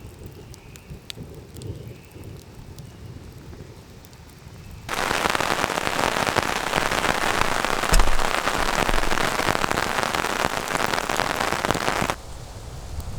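Heavy rain pouring down, a dense loud hiss that begins abruptly about five seconds in and cuts off suddenly about seven seconds later, with a sharp low thud in the middle of it. Before the downpour, only scattered drop ticks.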